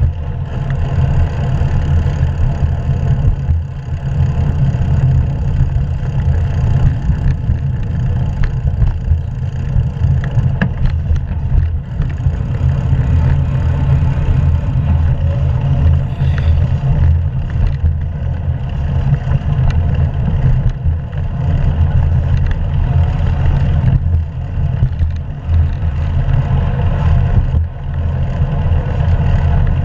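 Steady wind rumble on the camera microphone and tyre noise from a bicycle ridden along the road, with a few faint clicks.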